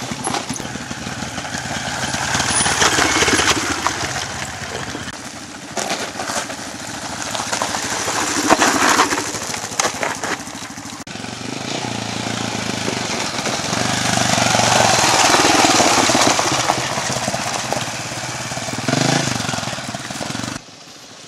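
Dirt bike engines running and revving, swelling and fading several times as bikes ride past. The sound drops off abruptly near the end.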